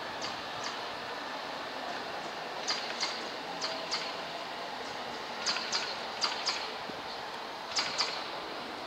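Railway station background noise, steady, with a series of short sharp high clicks, mostly in pairs, from a few seconds in.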